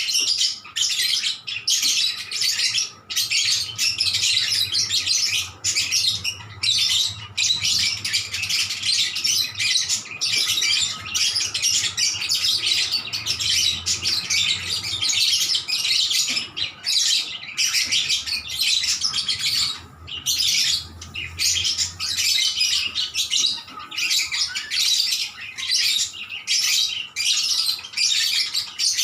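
Several lovebirds chattering busily and calling back and forth to one another: a dense stream of high, rapid chirping with only brief breaks.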